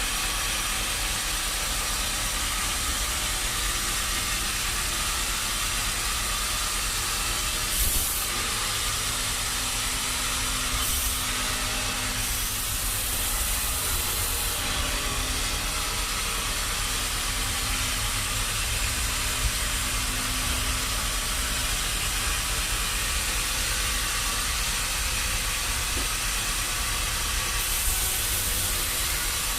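Sawmill machinery running with a steady loud hiss, with a few short sharper high-pitched stretches, the longest about two seconds.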